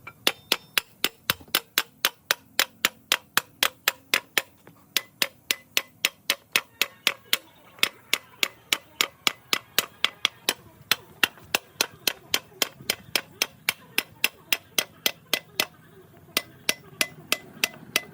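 Steady hand-hammer blows on metal, about three and a half sharp strikes a second, pausing briefly twice.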